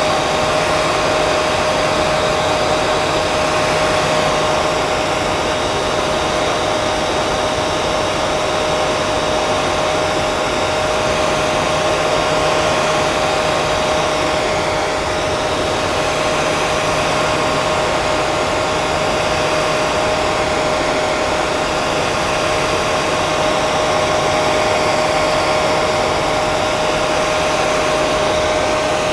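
Hair dryer blowing continuously: a steady rush of air with a constant motor whine held at one pitch.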